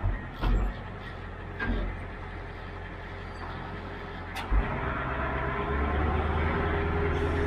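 A diesel engine running, with a few thumps and a sharp clunk about four and a half seconds in; after the clunk the engine gets louder and its pitch rises as it speeds up.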